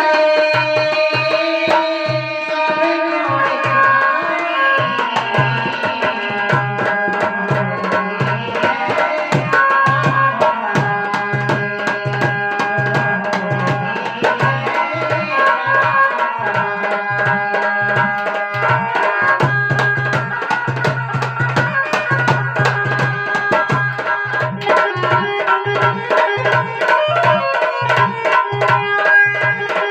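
Instrumental interlude of a devotional bhajan: a hand drum plays a quick, steady beat of low strokes under a sustained melody.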